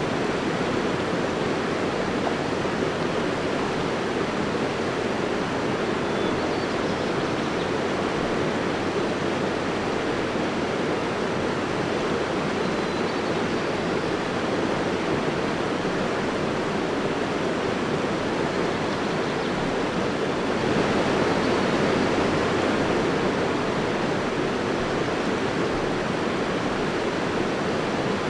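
Steady rush of moving water, swelling slightly about twenty seconds in.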